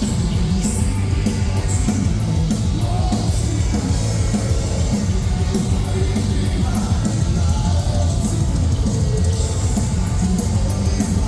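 Metalcore band playing live at full volume: heavy guitars, bass and drums with steady cymbal strikes, and a vocalist singing over them.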